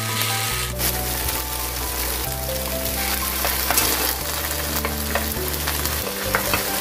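Tofu slices sizzling steadily as they pan-fry in oil in a nonstick frying pan, with a few light clicks as a wooden spatula turns the pieces over partway through.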